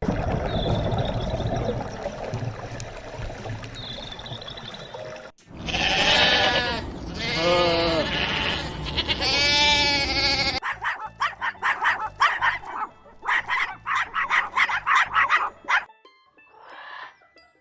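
Bleating: three long, wavering calls in the middle, over background music.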